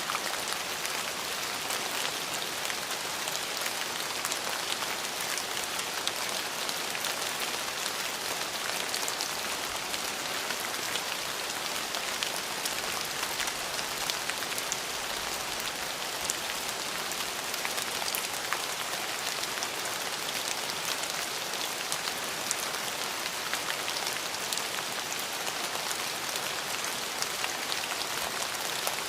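Steady rain falling, an even hiss with many small distinct drop ticks.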